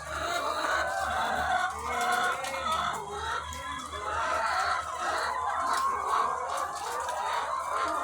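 A large flock of egg-laying hens clucking, many overlapping calls at once, over a low steady hum.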